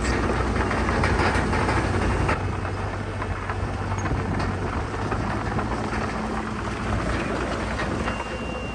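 Heavy earthmoving machinery at work: a diesel engine's low running under a dense, steady crunch and rattle of dirt and rock being moved. The sound shifts abruptly a little over two seconds in.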